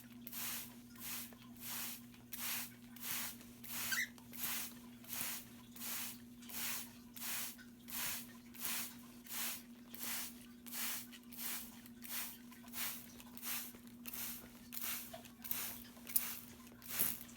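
Hand-held trigger spray bottle misting water in quick repeated squirts, each a short hiss, about three every two seconds, over a steady low hum.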